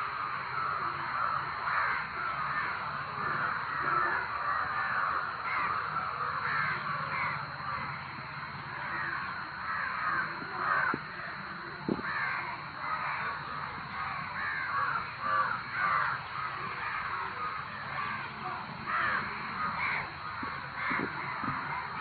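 A flock of crows cawing loudly, with many harsh calls overlapping without a break.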